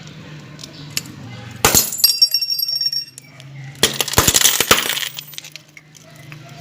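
Crunchy, brittle objects cracking and breaking under a motorcycle wheel in two loud bursts of crackling, about two seconds in and again about four seconds in, with a brief high ringing after the first. A steady low engine hum runs underneath.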